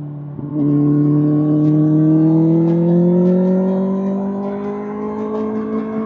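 Kawasaki ZX-6R inline-four through an SC-Project SC1-R exhaust, pulling under throttle. About half a second in it gets louder, and its pitch climbs slowly and steadily before levelling off near the end.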